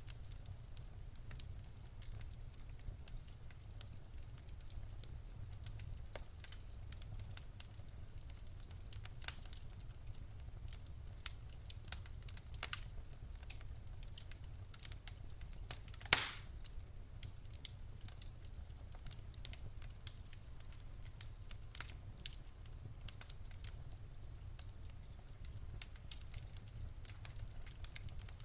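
Wood fire in a fireplace crackling steadily, with scattered small pops over a low rumble of the flames and one louder crack about 16 seconds in.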